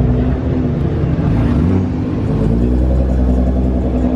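Car engine running close by, its pitch dipping and then rising about halfway through as it picks up revs.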